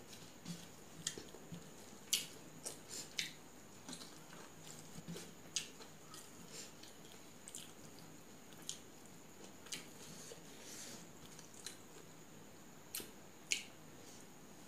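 Close-up eating sounds: wet chewing and mouth smacks come as irregular sharp clicks, with a few louder ones about two seconds in and near the end.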